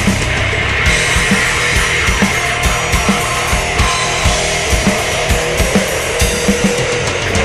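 Heavy rock music from a full band with a drum kit, the kick drum keeping a steady beat under dense, loud instruments.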